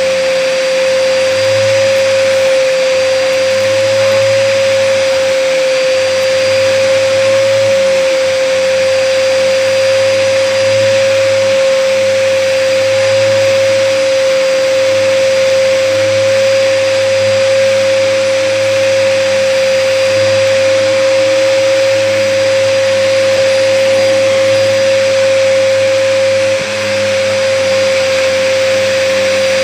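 Hoover upright vacuum cleaner running steadily while vacuuming, with a strong constant whine over the motor and airflow noise. The owner takes the vacuum to be clogged.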